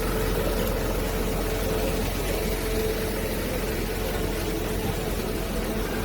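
An engine running steadily, with a low rumble and a faint constant hum.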